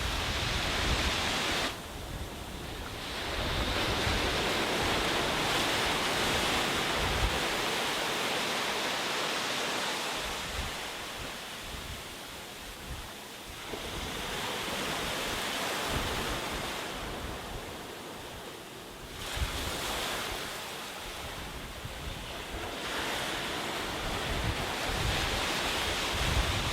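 Sea waves breaking and washing up a beach, the surf swelling and falling back in several surges. Wind buffets the microphone with a low rumble near the start and again near the end.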